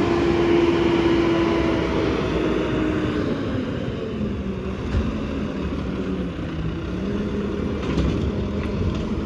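Heavy diesel garbage truck running close by. Its engine hum fades over the first few seconds, and a lower, steady engine drone takes over for the rest.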